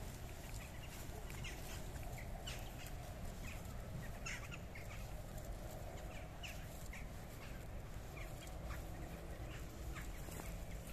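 Birds calling in short, scattered notes over a steady low rush of flowing water.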